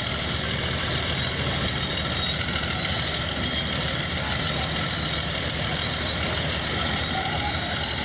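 Bulldozer's diesel engine running steadily under work, a continuous heavy engine noise with no pauses.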